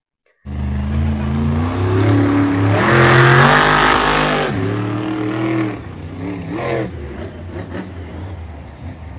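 A monster-truck engine revving sound, as a toy's or added sound effect. It starts suddenly about half a second in, climbs in pitch to its loudest at about three to four seconds, then falls back and runs on lower.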